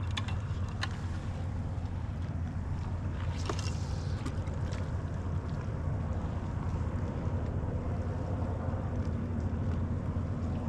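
Steady wind noise on the microphone over open water, with a low rumble underneath and a few light clicks near the start.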